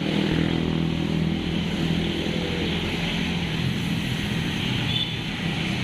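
Steady street traffic noise, with a vehicle engine hum that fades after two or three seconds.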